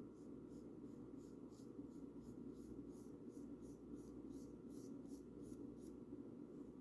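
Paintbrush stroking paint onto a bird house: soft, repeated brushing about three strokes a second, stopping shortly before the end, over a steady low hum.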